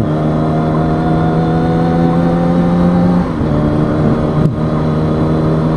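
Kawasaki ZX-6R 636 inline-four engine running at a steady pitch under way, over low wind rush. A little past halfway the steady tone breaks up for about a second, then returns at the same pitch.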